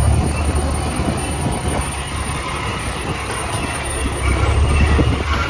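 Volvo VM 260 truck's diesel engine running, a steady low rumble with rough clattering noise over it. It eases a little in the middle and rises again near the end.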